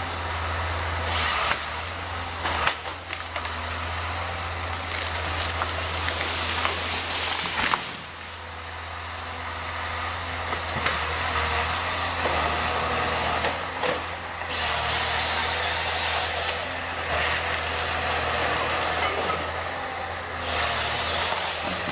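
A heavy diesel machine's engine running steadily, with several bursts of hissing noise, about two seconds long, coming and going over it.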